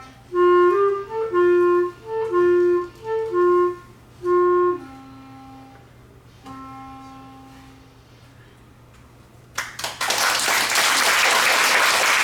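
Solo clarinet playing a run of short detached notes, then two quieter held lower notes that fade away as the piece ends. About ten seconds in, the audience breaks into applause.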